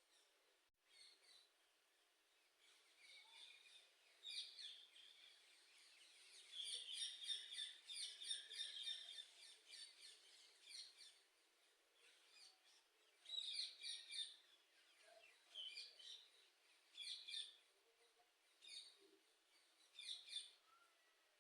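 Faint high chirping of small birds in short bouts of rapid notes, the longest run about seven to eleven seconds in.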